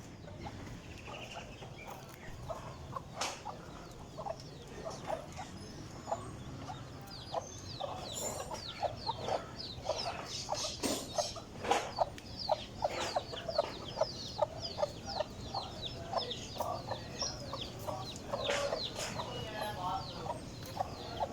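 Aseel chicks peeping: many short, high, falling chirps that grow busier after the first several seconds, with a few sharp clicks or taps among them.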